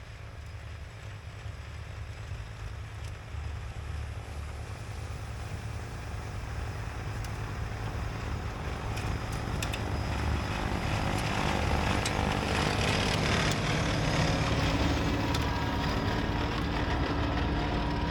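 Kubota LX2610 compact tractor running its snowblower: a steady low engine drone under a rushing noise, the whole growing steadily louder.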